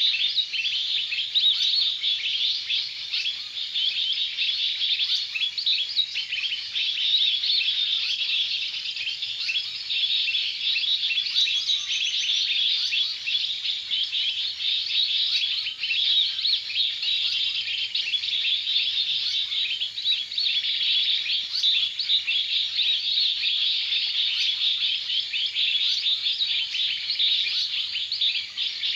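Birds chirping and twittering without a break: a dense, high-pitched stream of rapid short chirps.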